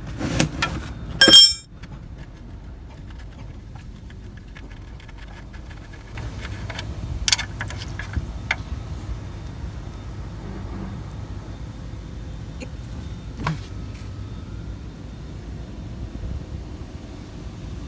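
Metal clinks and handling noises of hand tools on metal, with a sharp ringing clink about a second in, then a few scattered small clicks and knocks over a steady low rumble.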